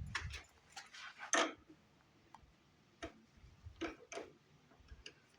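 Hand tools on engine metal: scattered sharp clicks and clinks as a wrench works a stud loose. There is a cluster of quick clicks at the start, a louder one about a second and a half in, and a few more in the second half.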